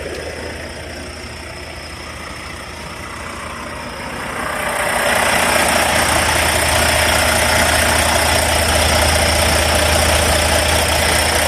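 Semi truck's diesel engine idling with a steady low hum; about four seconds in, a louder steady rushing noise sets in and holds.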